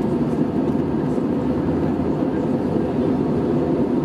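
Steady cabin noise aboard an Airbus A320-214 airliner: a low, even rumble with a faint steady hum, unchanging throughout.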